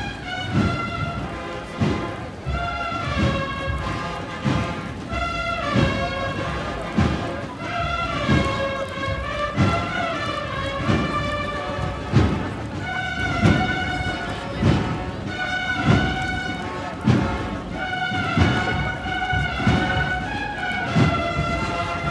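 Procession band playing a slow march: a held melody over a drum stroke about every second and a quarter.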